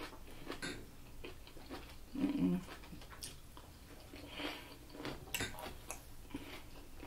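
Close-up eating sounds: faint chewing and lip smacks of food eaten by hand, with soft clicks and crackles and a few sharper clicks a little past five seconds. A brief murmur of voice comes about two seconds in.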